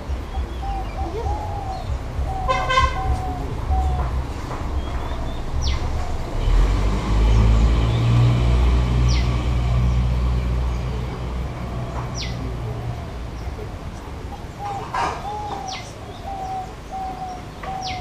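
Birds calling: short, sharp high chirps that sweep steeply downward, about five spread over the stretch, with a wavering lower call near the start and end. A low rumble swells through the middle.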